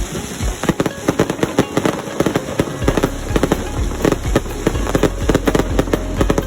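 A fireworks display firing rapid, overlapping sharp bangs and crackles. A steady low rumble joins in a little under halfway through.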